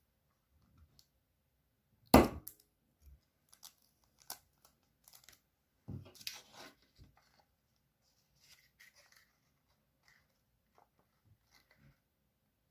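A sheet of paper being folded and creased by hand: a sharp crackle about two seconds in, another near six seconds, with light rustles and taps between.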